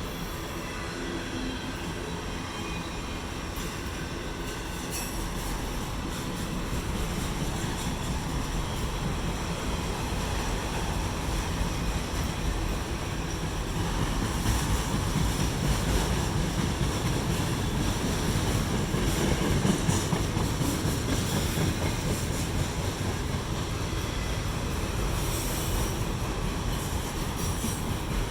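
Autorack freight cars rolling past: a steady rumble and rattle of steel wheels on the rails, getting louder after the first several seconds.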